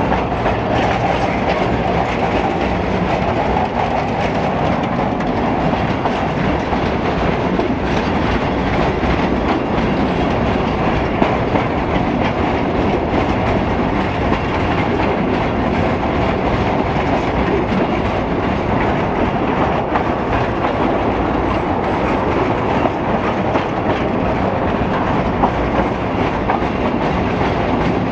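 Narrow-gauge railway carriage running steadily along the line: a constant rumble of wheels on the track, with frequent clickety-clack clicks from the rails.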